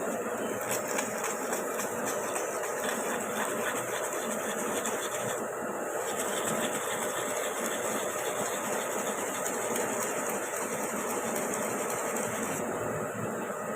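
A motorcycle engine running steadily with a fast, even clatter.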